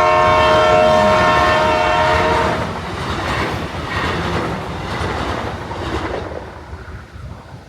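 Train horn sounding for about two and a half seconds, then the train running past with its wheels clattering over the rail joints, fading away.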